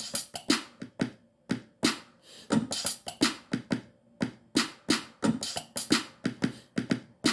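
Drum beat playing from an Akai MPC One: quick kick and snare hits with bright hi-hats in a busy pattern, on a straight grid without swing.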